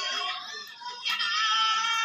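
Sooty-headed bulbul (kutilang) giving a drawn-out, high, strained call that swells about a second in.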